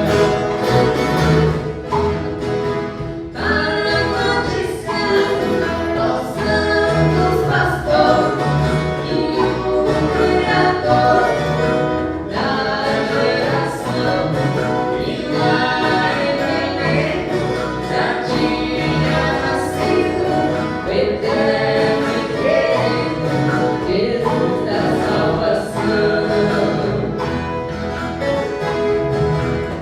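Viola caipira ensemble playing, with a group of voices singing together.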